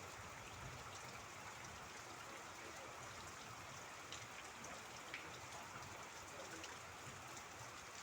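Steady rain: an even hiss with scattered individual drops ticking, one a little sharper about five seconds in.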